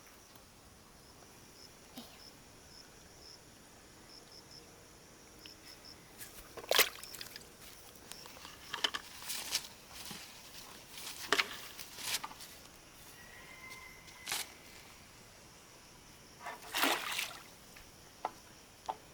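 Water splashing and sloshing in a handful of short, sharp bursts, the loudest about seven seconds in and near the end, over a quiet background.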